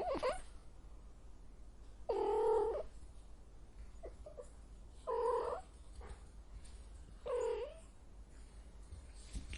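A cat meowing: three drawn-out calls a couple of seconds apart, the first and longest about two seconds in, after the tail of one call at the very start.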